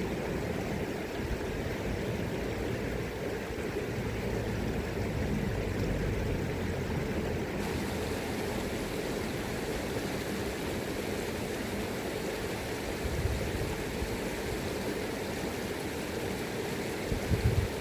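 River current rushing steadily. Low rumbles of wind on the microphone come and go, the strongest near the end.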